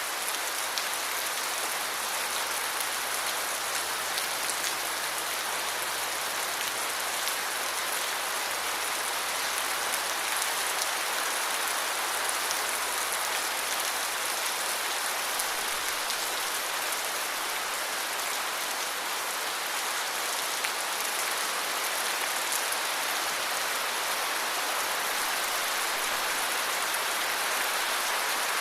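Steady rain falling, a continuous even hiss with fine patter of drops on surfaces.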